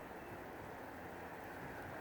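Steady, faint rushing outdoor ambience with no tones in it, which cuts in suddenly.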